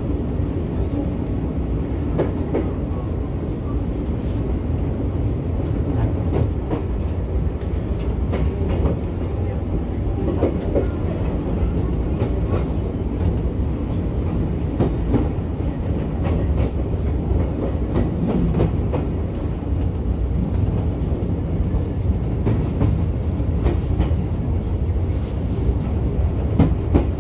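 Izu-Hakone Railway Sunzu Line electric train running along the track, heard from inside the front car: a steady low rumble of wheels on rail with scattered clicks over rail joints and points.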